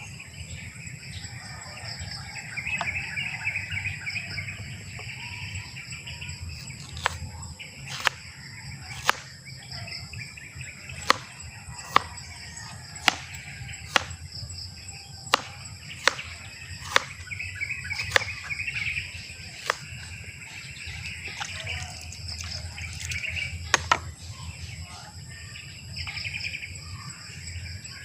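Birds chirping and trilling over a steady high-pitched drone. From about seven seconds in until near the end, sharp clicks or knocks come roughly once a second and stand out as the loudest sounds.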